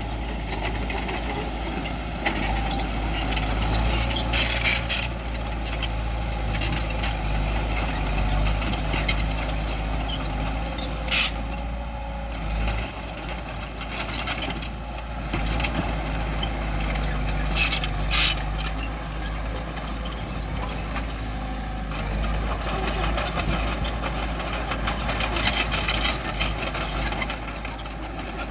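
Bulldozer's diesel engine running steadily under load, with short sharp clanks and scrapes every few seconds from the machine working the rocks.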